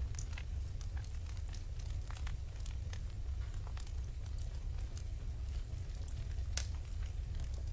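Fire burning in a fireplace: scattered crackles and pops over a steady low rumble, with one sharper pop near the end.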